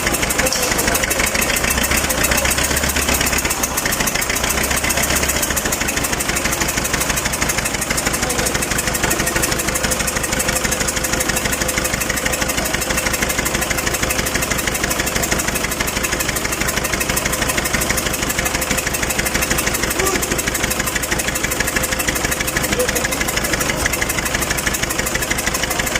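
Diesel engine of a freshly overhauled wheel loader running steadily at idle. The engine lacks power: its turbocharger does not spin up and a valve is leaking.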